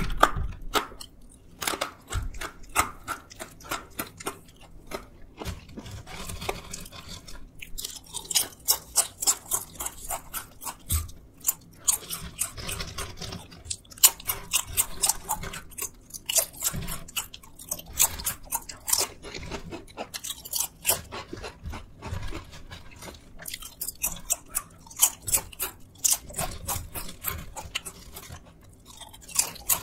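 Close-miked crunching and chewing of crispy snacks, thin potato chips and sweet potato sticks, mouthful after mouthful with short pauses between.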